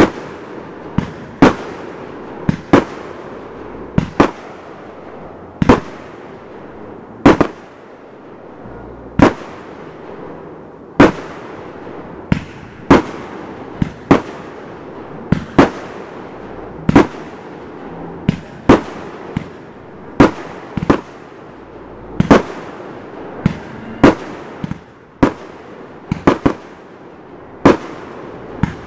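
Consumer aerial fireworks going off shot after shot, a sharp bang every second or two and sometimes two in quick succession, each bang trailing off briefly.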